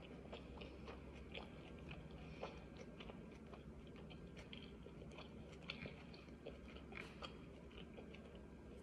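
Faint chewing of a mouthful of a burrito bowl, with small, irregular mouth clicks.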